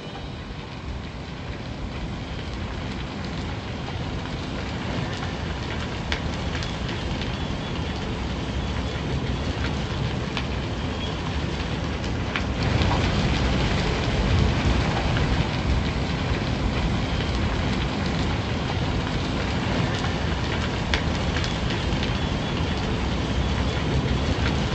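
Train running on the rails: a steady, noisy rumble with occasional sharp clicks, growing louder about halfway through.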